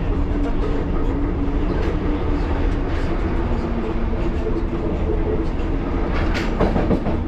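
1938 Tube Stock underground train running on the rails, heard from inside the carriage: a continuous rumble and rattle with a steady hum, and a louder clatter of the wheels near the end.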